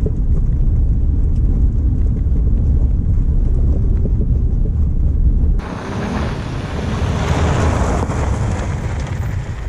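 Wind buffeting the microphone as a heavy low rumble, which changes suddenly about halfway through to a lighter, hissier rush of wind.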